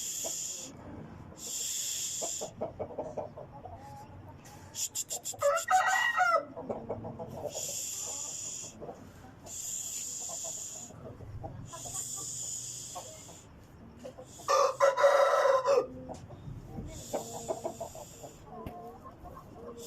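Aseel roosters crowing, two loud crows about six and fifteen seconds in, with clucking between. A high hiss comes and goes in patches of about a second.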